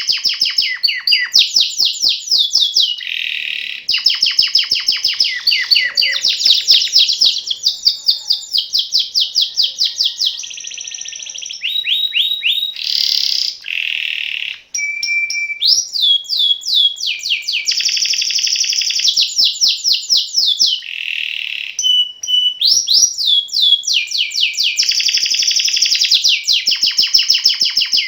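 Domestic canary singing a long, unbroken song of rolling trills. Each phrase is a fast run of the same repeated note, and it changes to a new phrase every second or two, some rising and some falling.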